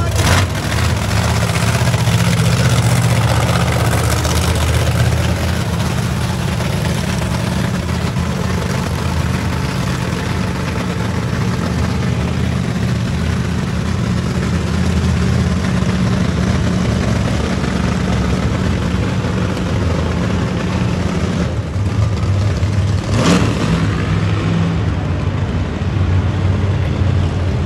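Monster truck engines running and revving loudly together, with one sharp crack a few seconds before the end.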